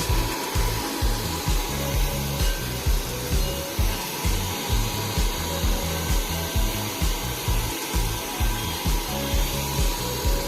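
Hand-held hair dryer blowing with a steady hiss and a faint whine, over background music with a deep, regular beat about once a second.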